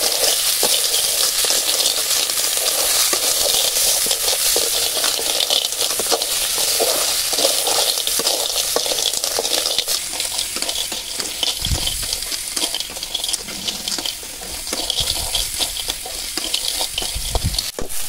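Snails in their shells frying in oil and spice paste in a metal kadai, sizzling, as a metal spatula stirs them with frequent clicks and scrapes. The sizzle eases a little after about ten seconds.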